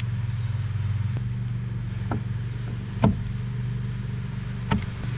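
A steady low mechanical hum, like an engine running somewhere nearby, with a few light clicks and taps of small parts being handled, the sharpest about three seconds in.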